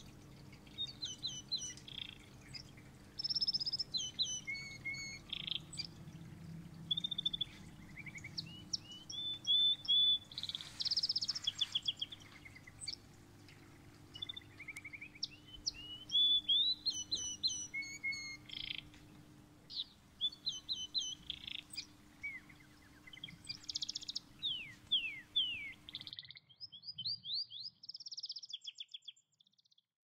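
Small songbirds chirping and trilling in quick, repeated phrases, over a faint steady low hum. The hum cuts off abruptly near the end while the chirping goes on.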